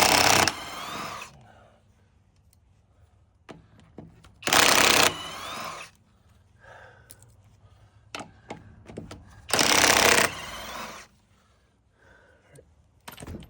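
Impact wrench hammering in three short bursts about five seconds apart, each followed by a brief whine, as the wheel's lug nuts are loosened to take the wheel off.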